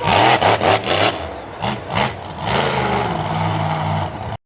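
Racing vehicle engine revving hard, its pitch rising and falling with the throttle, then cut off abruptly near the end.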